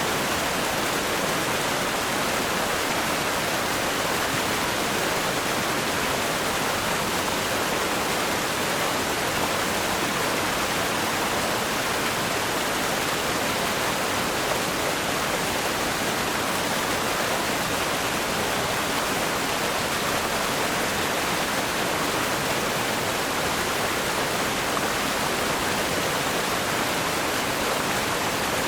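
River rapids rushing over rocks: a steady, even roar of water that does not change.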